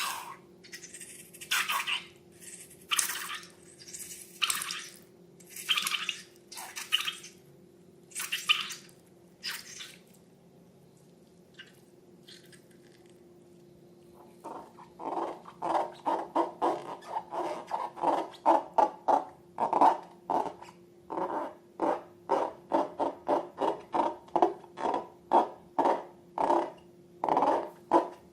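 Slime being squished and worked by hand, with wet squelches. Separate squishes about a second apart come first, then after a pause a fast run of squelching and popping, two or three a second. A faint steady hum lies underneath.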